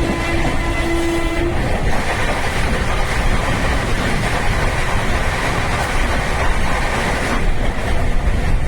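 Express train running, a continuous rumble of wheels on track; a train horn holds one steady note at the start and stops about one and a half seconds in.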